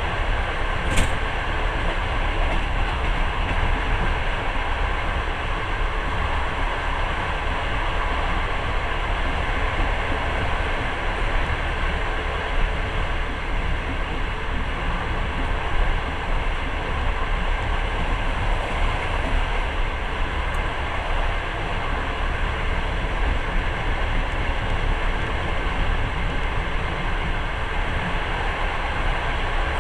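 Steady running noise of a moving passenger train, heard from inside the carriage: wheels on the rails and the carriage's rumble. There is a single sharp click about a second in.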